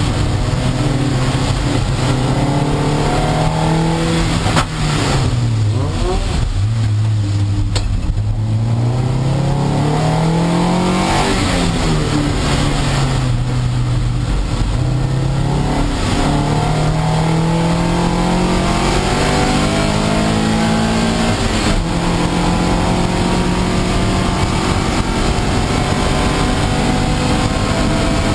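Mid-engined Toyota MR2 race car's engine heard from inside the cabin, revving up and dropping back through several gear changes, with a deep drop about five seconds in as it slows for a corner. A steady hiss of rain and road spray runs underneath.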